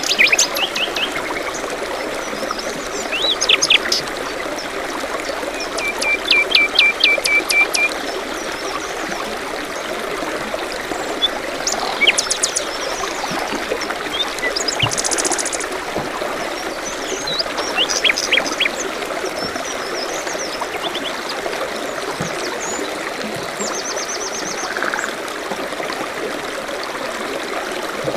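Stream trickling steadily, with several songbirds chirping and calling over it; about six seconds in one bird gives a quick run of about ten repeated notes.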